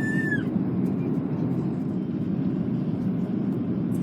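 Steady rumble of an Airbus A330-300's engines and airflow heard from inside the passenger cabin. A short high tone trails off in the first half second.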